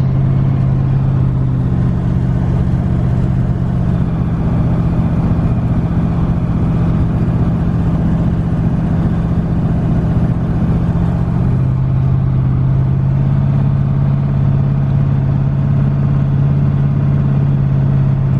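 Twin-turbo LS V8 in a Fox-body Mustang running at a steady low rpm through an exhaust without mufflers, heard from inside the car as a loud, even drone.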